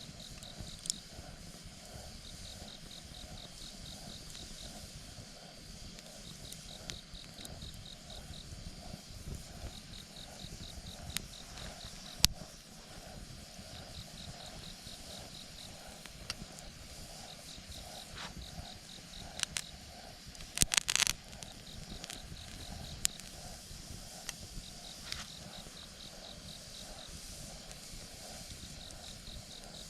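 Wood fire crackling, with scattered sharp pops: a loud one about twelve seconds in and a quick cluster around twenty-one seconds. An insect chirps through it in short, evenly pulsed trills at one high pitch.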